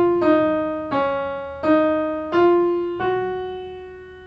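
Piano playing a short stepwise phrase, one note about every two-thirds of a second: E-sharp, D-sharp, C-sharp, D-sharp, E-sharp, then a last F-sharp that is held and fades away. Each note starts crisply and dies away.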